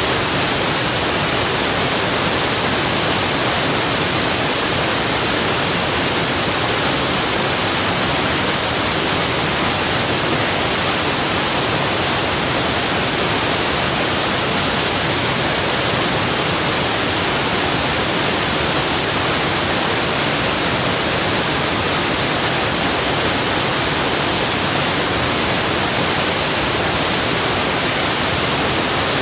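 Waterfall's rushing water: a steady, even hiss that does not change.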